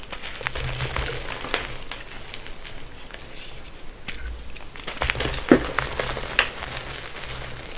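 Blocks of gym chalk being crushed by hand: a run of dry crumbling crackles and crunches, the sharpest crunch about five and a half seconds in.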